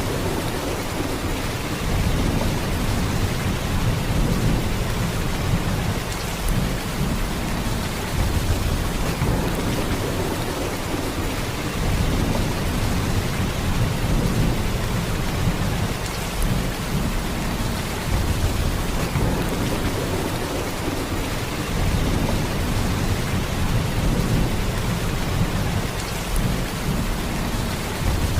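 Heavy, steady rain: a dense hiss of downpour over a deep low rumble that swells and eases every few seconds.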